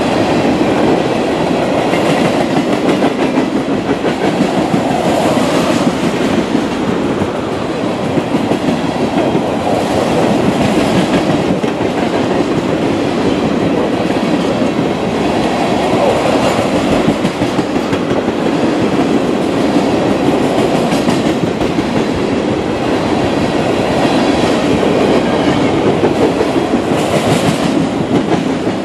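Tank cars of a freight train rolling past: the steady rumble and clatter of steel wheels on the rails.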